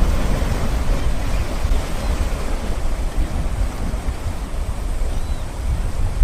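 River fountain water jets spraying and splashing into the water in a steady rush, with a low, uneven rumble of wind on the microphone.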